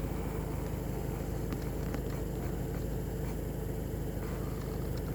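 VW Golf 7 engine idling steadily, with a few faint clicks in the middle.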